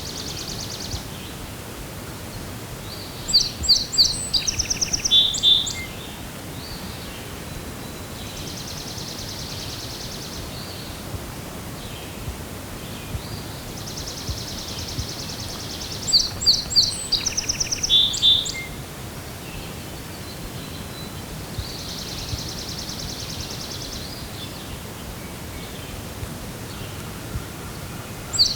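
Wild songbirds singing over a steady outdoor hiss. A short song of sharp high notes comes twice, and a third begins at the very end. Buzzy high trills fill the gaps between them.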